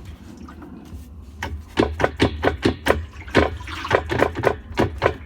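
The drum of a GE top-load washer is turned by hand. About a second and a half in, a quick run of clicks and knocks starts, over a low rumble. To the man checking it, it all sounds normal.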